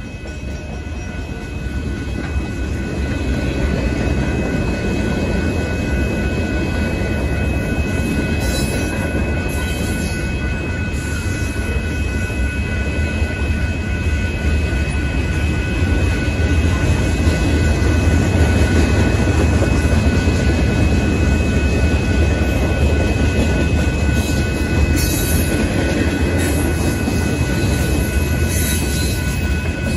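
Union Pacific manifest freight train's cars rolling through a grade crossing: a steady rumble and clatter of wheels on rail that builds over the first few seconds, then holds, with steady high-pitched tones running underneath.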